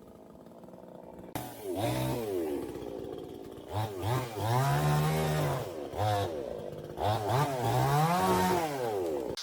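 Chainsaw engine revving up and down several times, its pitch rising and falling with each rev, starting about a second and a half in, as it cuts branches.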